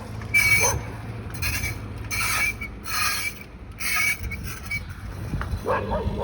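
Bicycle being ridden, giving a harsh, scraping rasp with a squeal in it that repeats about once a second. It is the sign of a fault the rider reckons will cost about 500 reais to fix.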